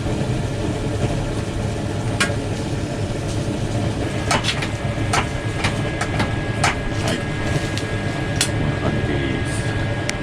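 Chicken grilling over charcoal briquettes: scattered sharp pops and crackles, thickest a few seconds in, over a steady low rumble.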